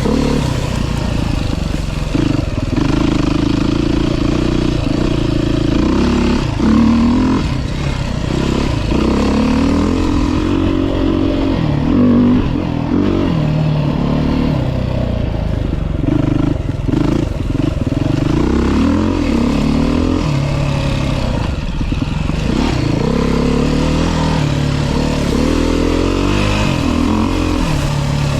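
2023 Beta 390 RR-S single-cylinder four-stroke dirt bike being ridden on a trail, its engine revving up and falling back again and again as the throttle is opened and closed.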